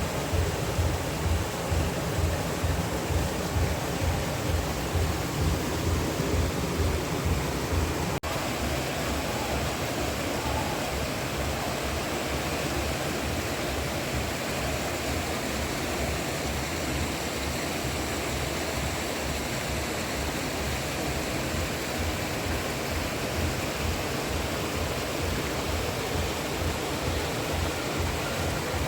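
Steady rushing noise of flowing water, like a stream or river. For the first several seconds it has low, uneven pulses under it. About eight seconds in, it changes abruptly to an even rush.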